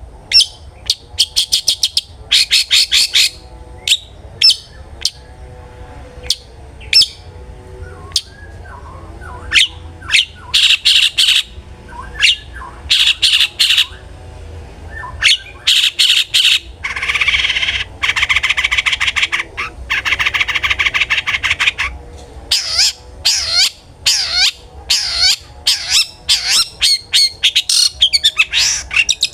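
Long-tailed shrike (cendet) in full song: loud runs of quick, sharp, repeated notes with short pauses between, and a few seconds of dense, harsh chattering around the middle.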